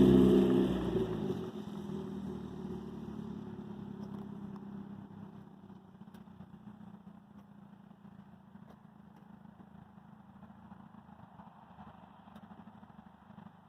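Race car engine, loud at first and dying away over the first two seconds into a steady low running note, which fades to faint about five seconds in.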